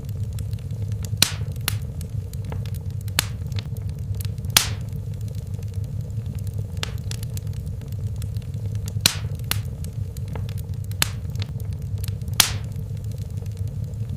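Wood fire crackling in a fireplace: a steady low rumble of flames with sharp pops and snaps scattered throughout, four of them louder than the rest.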